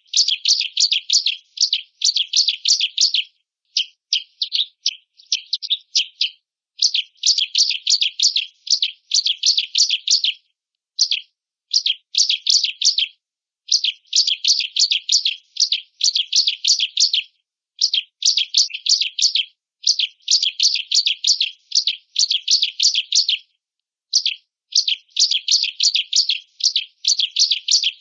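Bar-winged prinia (ciblek) singing: rapid, high-pitched chattering trills in phrases of one to three seconds, separated by short breaks.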